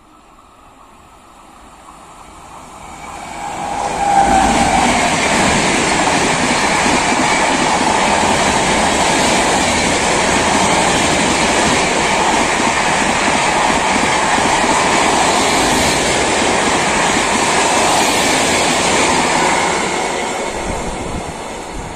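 Express train hauled by a WAP-7 electric locomotive passing at about 131 km/h. It swells over the first four seconds as it approaches, then the coaches run by in a loud, steady rush of wheels on rail with clickety-clack, fading near the end as the last coach goes by.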